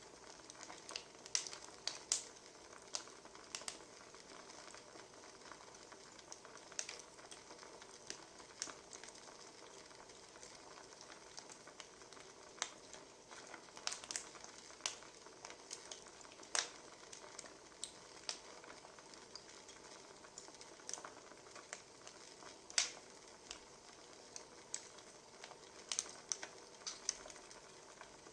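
Wood fire crackling: a soft steady hiss with irregular sharp pops and snaps from the burning logs.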